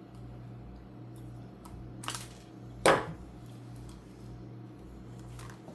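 Small parts and tools being handled during work on an RC car's steering servo: a brief scrape about two seconds in, then a single sharp click.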